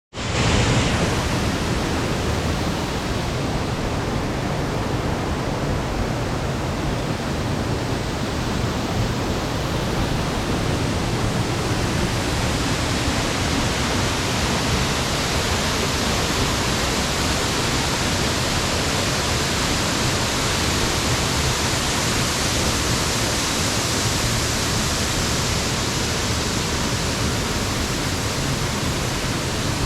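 Steady, even rushing noise with no breaks or rhythm, a little brighter in the upper range in the second half.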